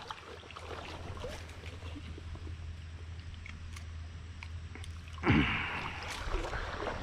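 River water flowing and rippling over a steady low rumble, with a brief louder sound about five seconds in.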